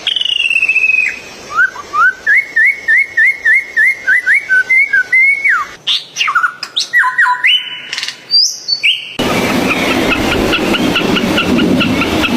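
Birdsong in several spliced recordings. A falling whistle is followed by a series of rising whistled notes, about three a second. Varied whistles come next, and after an abrupt change about nine seconds in, rapid repeated chirps sound over a noisier background.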